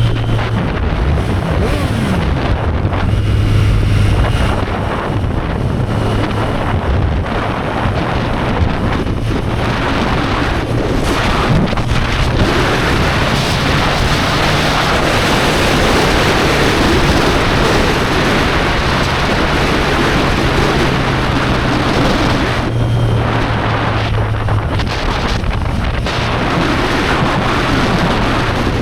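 Heavy wind rushing over the microphone on a moving Triumph Street Triple 765 R, with the bike's inline-three engine running underneath at a steady pitch that shifts now and then.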